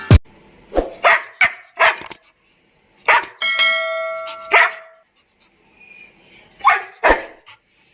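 A Labrador retriever barking in short, sharp barks, about nine over the stretch, in irregular bunches. In the middle a steady bell-like ringing tone sounds for about a second and a half.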